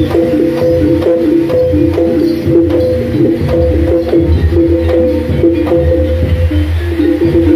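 Jaranan dor ensemble music: quick, repeated pitched percussion notes over dense drumming and a deep bass drum, in a fast, driving rhythm.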